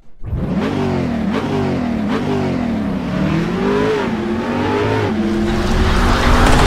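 A vehicle engine revving, its pitch rising and falling several times, then settling into a steadier, louder run near the end.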